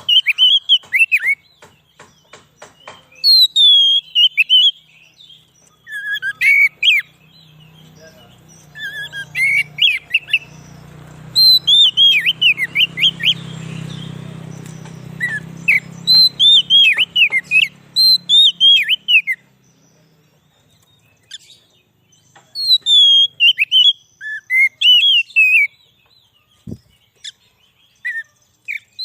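Oriental magpie-robin (kacer) singing: bursts of rapid, sweeping whistled notes, with short pauses between phrases.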